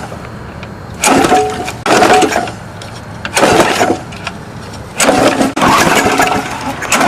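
Petrol push lawnmower being pull-started by its recoil cord three times, the engine turning over with each pull but not catching.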